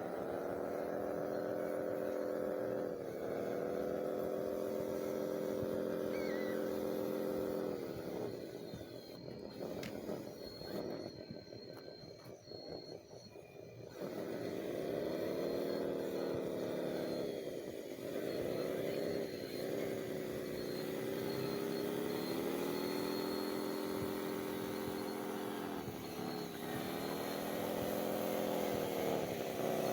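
Electric motor of a radio-controlled construction model whining steadily. Its pitch sags and recovers several times as it takes load. It fades out for several seconds in the middle, then returns.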